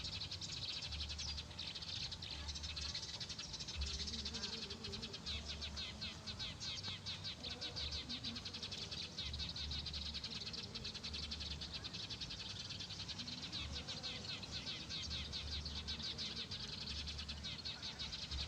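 Many small birds chirping rapidly and without a break, a dense high twittering, with gusts of wind rumbling on the microphone.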